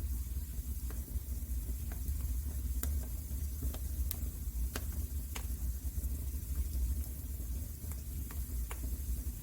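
Wood fire crackling in a fireplace: irregular sharp pops and snaps, about a dozen spread unevenly through, over a steady low rumble and faint hiss.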